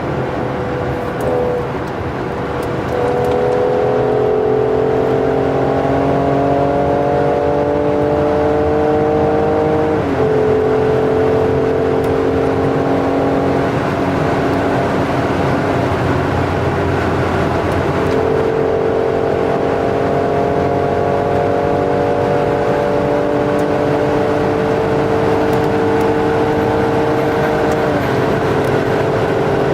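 Mercedes-AMG GLC 43's twin-turbo V6 under hard acceleration at high speed. The engine note gets louder about three seconds in and climbs slowly, then drops suddenly at an upshift about ten seconds in. It climbs again and drops at a second upshift near the end.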